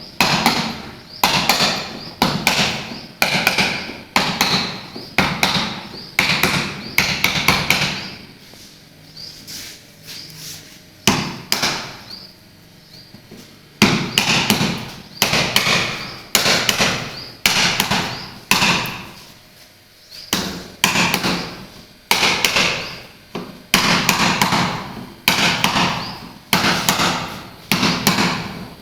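Repeated hammer blows, about one or two a second, on a refrigerator's top while it is being opened. The blows stop for several seconds midway, with a single knock in the pause, then resume.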